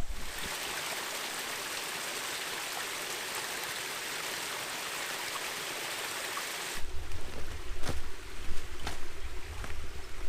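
Steady rush of running water from a stream, cutting off abruptly about seven seconds in. After it comes a low rumble of wind on the microphone with a few light clicks.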